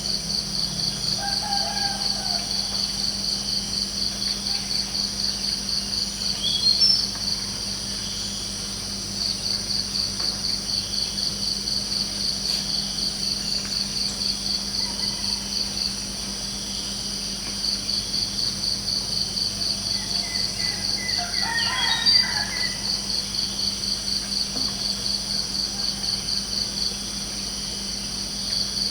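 Crickets chirping in a steady pulsing trill that pauses for a second or two a few times, with a rooster crowing faintly about twenty seconds in.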